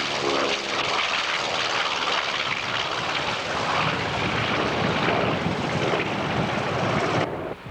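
Propeller-driven aircraft engine running loud overhead, an engine tone in the first second giving way to a broad rushing noise that cuts off suddenly near the end.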